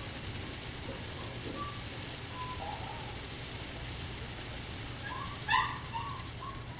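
N scale model locomotives running, a steady hum and hiss. A few faint short chirps sound early on, and one brief, louder high-pitched sound comes about five and a half seconds in.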